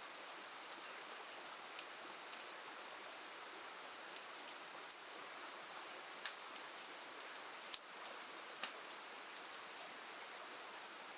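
Steady hiss of rain falling by a river, with scattered sharp ticks throughout.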